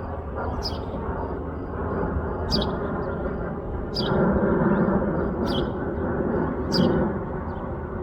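Embraer E175 twin-turbofan airliner's jet noise as a steady rumble that swells about halfway through, with a bird giving a short sharp chirp about every second and a half.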